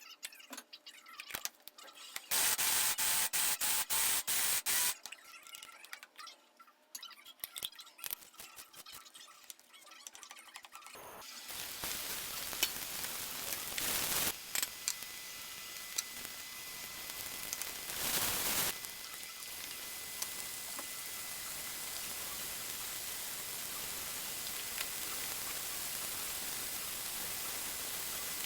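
Scattered clicks and kitchen handling noise, with a loud noisy burst lasting a few seconds early on. About eleven seconds in, food starts frying in a pan: a steady sizzle that slowly grows louder, with two brief louder surges.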